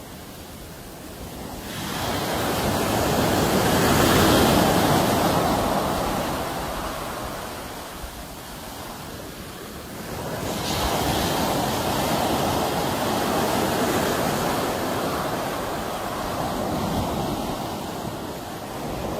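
Sea waves surging and washing ashore in two swells. The first builds about two seconds in and fades by about eight seconds; the second rises about ten seconds in and holds for most of the rest.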